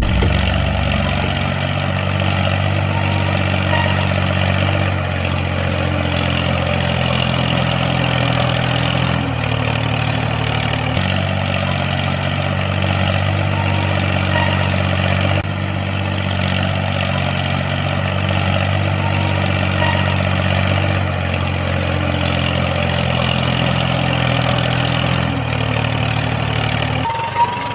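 A small vehicle engine, likely a mini tractor's, running steadily, its pitch stepping up or down a few times.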